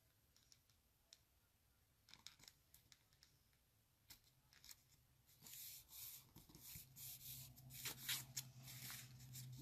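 Faint rustling and scraping of paper cardstock being handled on a craft table, after a few quiet clicks. The rustling becomes more continuous about five and a half seconds in, and a low steady hum joins near the end.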